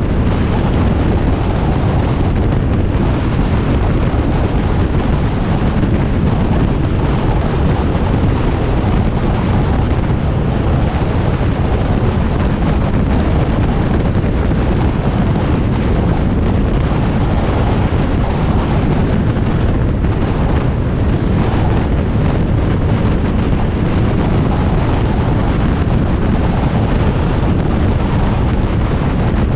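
Wind rushing over the microphone of a motorcycle at riding speed, a loud, steady rush heaviest in the low end, with the Harley-Davidson Iron 1200's engine running underneath.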